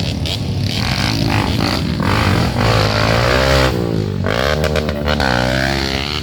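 Dirt bike engines revving, the pitch rising and falling repeatedly as the throttle is worked in mud.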